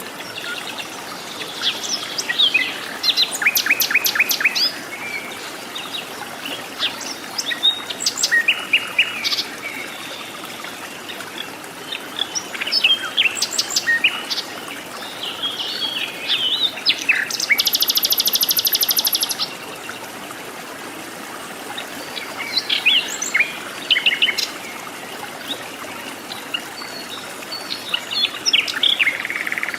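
Several forest birds calling: short high chirps, whistles and quick descending notes, scattered over a steady background hiss. In the middle comes a rapid, high buzzing trill of about two seconds.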